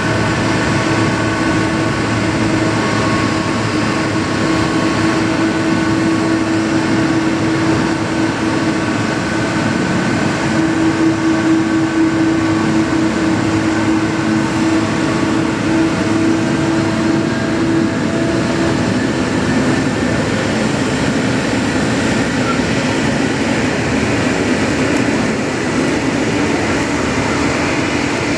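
Boeing 777 jet engines running near idle: a steady whine with several held tones, one of them dropping slightly in pitch past the middle and a higher one creeping up later.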